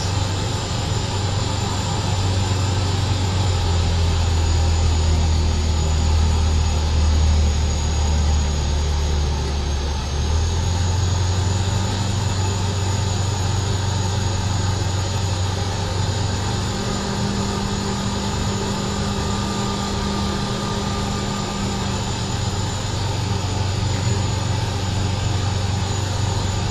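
Briggs & Stratton Vanguard 35 hp V-twin engine of a small homebuilt aircraft running steadily, a continuous low drone that shifts slightly in pitch about ten seconds in.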